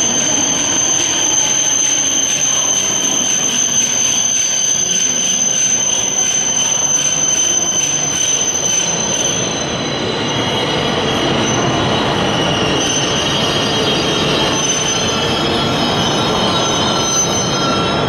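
A Shinkansen train moving along the platform with a loud rumble and a high, steady squeal. About ten seconds in, the squeal breaks up into short, intermittent squeals.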